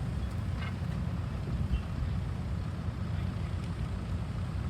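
Diesel engine of a hydraulic excavator running with a steady low rumble.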